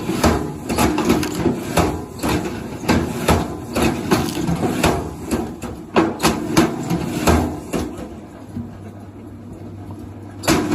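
A cleaver chopping on a wooden board, a quick irregular run of sharp knocks, two or three a second. The knocks stop about three-quarters of the way through, leaving a low hum.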